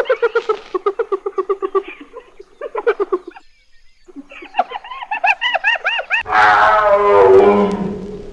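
Animal calls: a fast run of short, repeated pitched calls, about ten a second, then after a brief pause a chattering series of arched calls. About six seconds in, a louder, longer and harsher call with a falling pitch begins.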